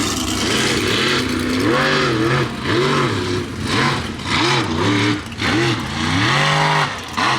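Mega mud truck engine revving up and backing off over and over, its pitch climbing and dropping about once a second.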